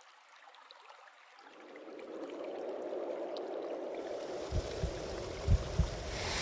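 Rushing water of a waterfall stream fading in from near silence and settling into a steady rush. Irregular low thumps join it from about four seconds in.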